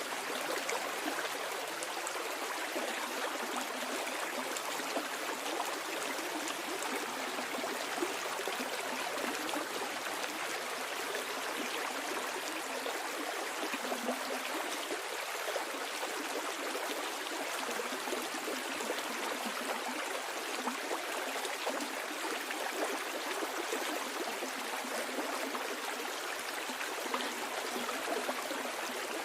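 Stream water flowing steadily downhill, a continuous rushing and trickling over rocks.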